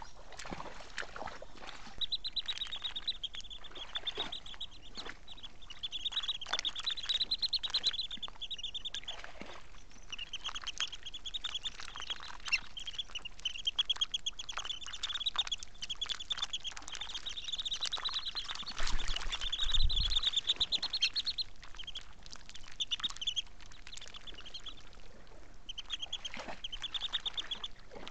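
Birds calling: long runs of rapid, high chattering notes repeated many times a second, with short gaps. About two-thirds of the way through there is a brief low bump.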